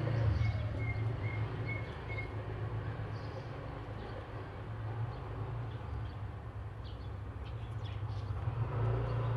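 A steady low rumble with faint, short high bird chirps in the second half.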